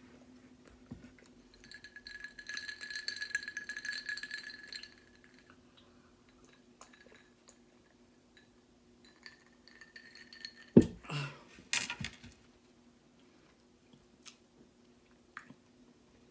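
A drinking glass of Hawaiian Punch clinking and rattling for about three seconds, then more faintly again later. There is a sharp thump a little after the middle. A faint steady hum runs underneath.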